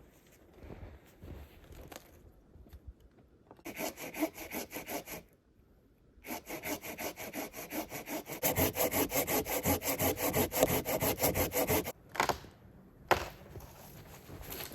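Hand saw cutting through wood in quick, even back-and-forth strokes: a short run of strokes, a pause, then a longer, louder run of about six seconds. A couple of sharp snaps follow near the end.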